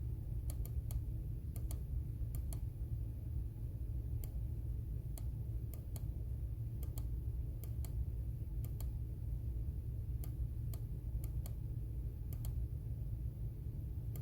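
Computer keyboard keys clicking now and then, a few keystrokes at a time with pauses between, over a steady low background hum.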